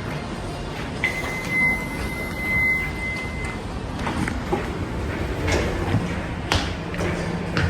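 Kone marine elevator arriving: a steady, high electronic tone sounds about a second in and holds for roughly two and a half seconds, then the car's sliding doors move with a few sharp clicks and knocks.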